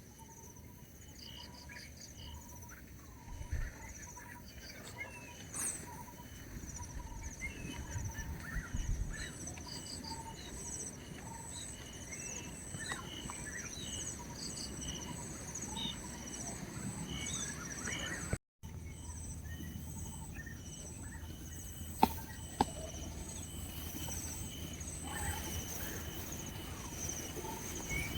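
Forest ambience: insects keep up a steady high-pitched trill, with short repeated chirps of birds or insects over a low rumble. Two sharp clicks come close together about three-quarters of the way through.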